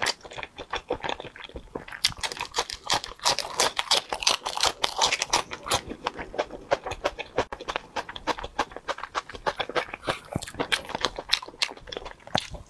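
Close-miked mouth sounds of chewing red-braised pork belly and rice: many small clicks and smacks in quick, irregular succession.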